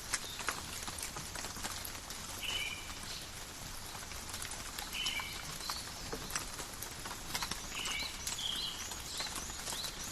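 Light rain falling in a forest, a steady hiss with many individual drops ticking. A bird gives a short two-part call about every two and a half seconds, with a few higher chirps near the end.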